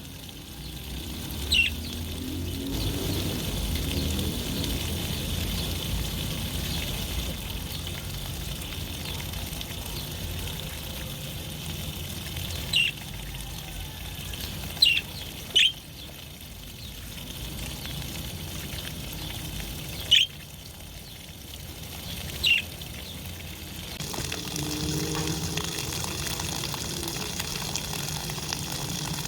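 Budgerigars giving short, sharp chirps, about six of them spread out, over a steady rush of water as they bathe.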